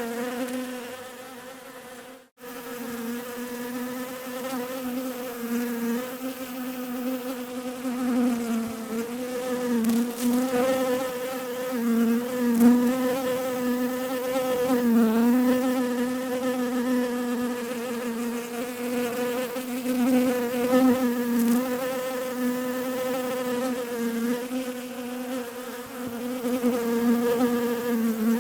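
Bees buzzing in a steady, slightly wavering drone. It fades and cuts out sharply about two seconds in, then picks up again.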